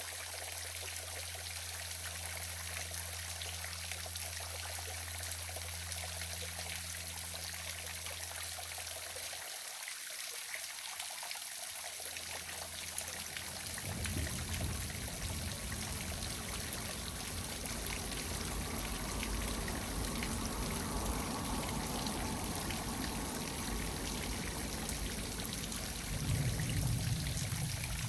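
Small waterfall splashing and trickling steadily. A low steady hum sits under it for the first third, and a low rumble comes in about halfway.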